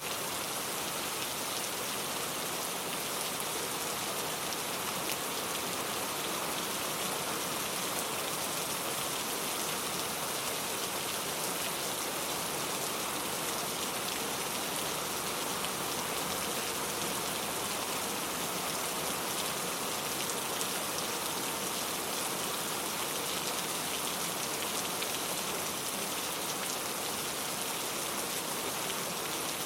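Steady, dense rain falling, an even hiss with fine patter of drops hitting a surface.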